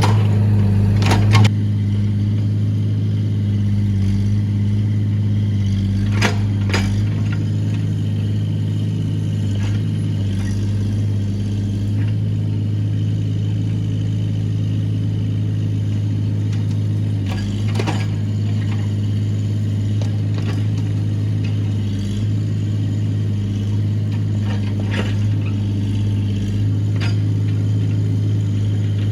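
Excavator engine running steadily under load, with a few short sharp knocks and clanks, about a second in, around six seconds in, and several more later.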